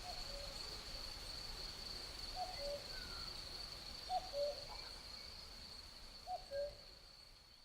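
A common cuckoo calling its two-note, falling "cu-ckoo" four times, about every two seconds, over a steady high chirring of crickets and a few faint songbird notes. The ambience fades slowly near the end.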